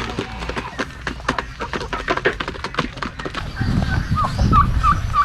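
Domestic poultry calling: a busy run of short clucks and clicks, then from about three and a half seconds in a quick series of short, repeated calls, several a second, over a low rumble.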